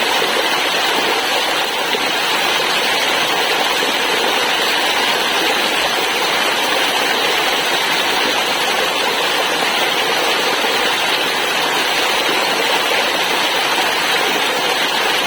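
Waterfall rushing steadily, an unbroken wash of falling-water noise with no change in level.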